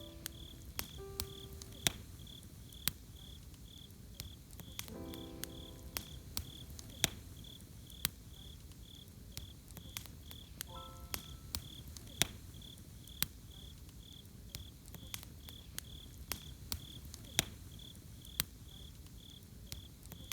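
Campfire crackling, with sharp pops about once a second over a low rumble, while a cricket chirps steadily about twice a second. A few soft musical notes sound near the start, about five seconds in and again about eleven seconds in.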